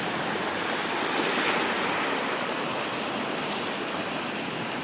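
Sea waves washing in on a rocky shore: a steady rush of surf that swells slightly about a second and a half in.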